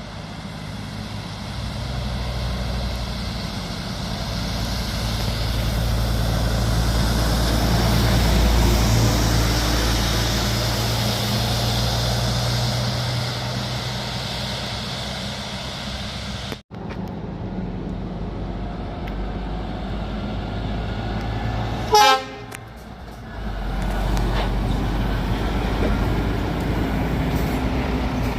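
Heavy trucks driving past, their diesel engines building and then easing off; the sound breaks off abruptly partway through and another truck takes over. About two-thirds of the way in, one brief, loud horn toot sounds, the loudest moment, after which another truck engine picks up.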